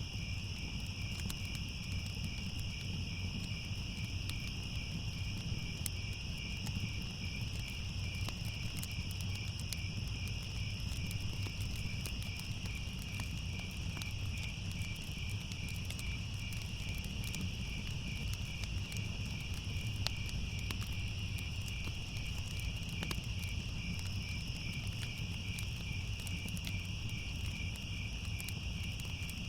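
Crickets chirping in a steady, evenly pulsing chorus over a low rumble, with scattered faint crackles from a fire.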